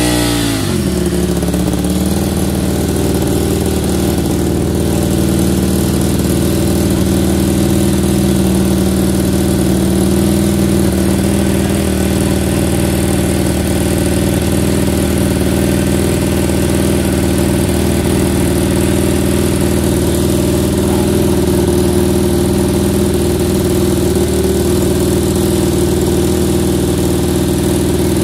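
An engine coming down from higher revs in the first second, then idling steadily.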